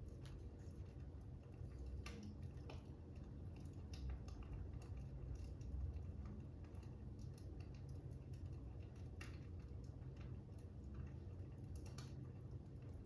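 Faint fire crackling: irregular sharp pops and snaps over a low, steady rumble.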